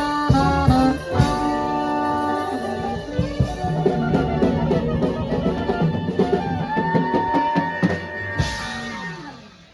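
A live swing band playing, with drum kit, guitar and long held notes. It dies away near the end.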